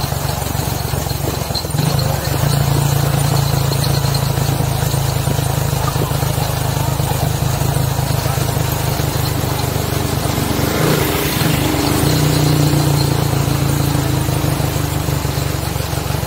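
Motorcycle-with-sidecar tricycle's engine running steadily as it drives along, heard close up from the vehicle, its note shifting briefly about eleven seconds in.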